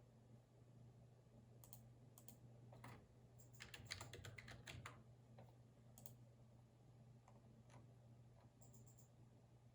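Faint typing on a computer keyboard: a few scattered keystrokes, a quick run of typing about three and a half to five seconds in, then scattered keys again, over a low steady hum.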